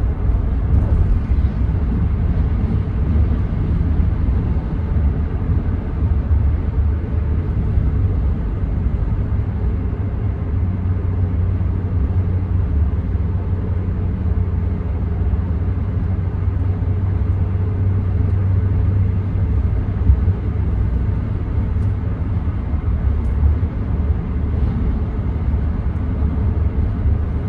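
Steady low rumble of a 2014 Ram 1500's 5.7 Hemi V8 and road noise, heard from inside the cab while the truck is being driven.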